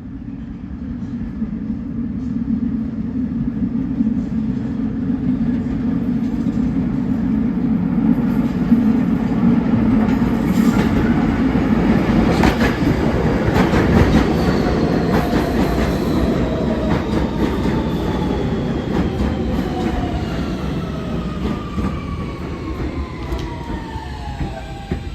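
An R160 New York subway train comes in, its wheels clicking rapidly over the rail joints. Then the motor whine falls steadily in pitch for about ten seconds as the train slows.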